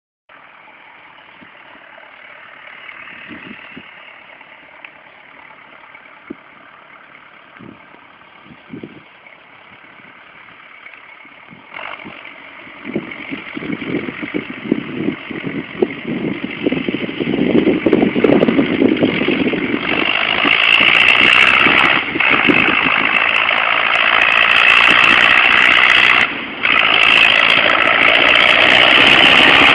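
Tractor engine running, faint at first, then growing much louder from about halfway through, with two brief drops near the end.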